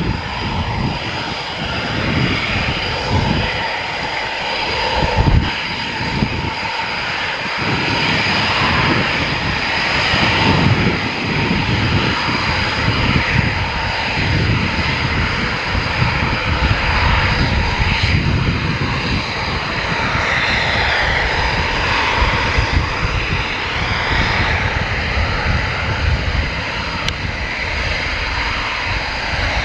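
Military fighter jet engines running continuously, a heavy low rumble under a steady high whine.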